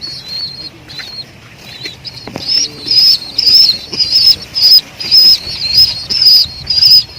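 Young racing pigeons (squeakers) begging to be fed by a parent, giving a rapid string of shrill, high-pitched peeps, about two a second, that grow louder a couple of seconds in.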